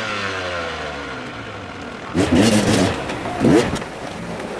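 Dirt bike engine, its pitch sliding down as it comes off the throttle, then two short sharp revs, about two and three and a half seconds in.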